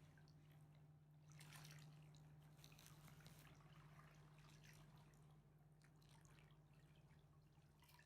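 Near silence: faint river water lapping, with scattered drip-like ticks over a low, steady hum.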